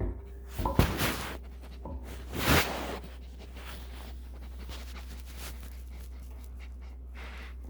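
A dog sniffing and snuffling up close, a few short loud bursts of breath in the first three seconds, then only a low steady hum.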